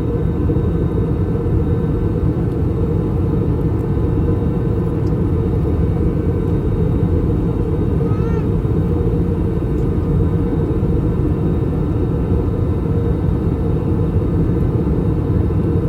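Steady in-cabin noise of an Airbus A321 in descent, from the airflow and its IAE V2533-A5 turbofan engines. It is a constant low-pitched sound with almost nothing above the low range. A brief high, wavering squeak is heard a little past halfway.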